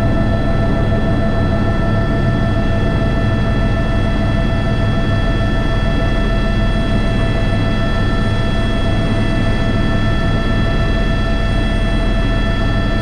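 Airbus H125 (AS350 B3) helicopter running steadily in flight: a constant turbine whine made of several high tones over the low rumble of the rotor.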